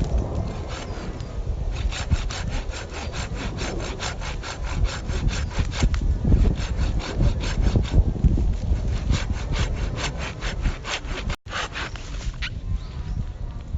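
Hand saw cutting through wood in quick, even back-and-forth strokes, with a brief break about three-quarters of the way through.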